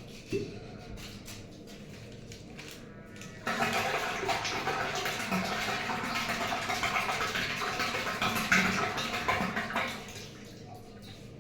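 Water rushing out of a pipe or valve. It starts suddenly a few seconds in, runs steadily for about six seconds and dies away near the end.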